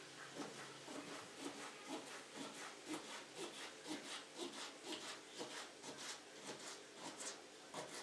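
Rhythmic back-and-forth rubbing or scrubbing strokes, about two a second.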